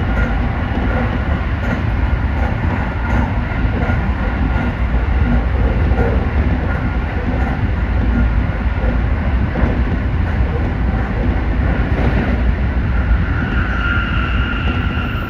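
Rumble of a Tsukuba Express electric commuter train running at speed, heard from inside the car: a steady low rumble of wheels on rail with occasional faint clicks. A high motor whine grows stronger near the end.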